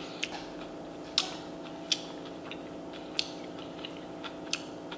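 A person chewing food near the microphone: scattered sharp mouth clicks and smacks at irregular intervals, over a steady low hum.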